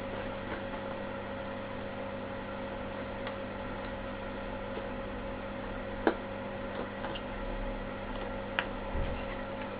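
Steady electrical hum with a faint hiss, broken by a few sharp clicks, the loudest about six seconds in and another shortly before the end.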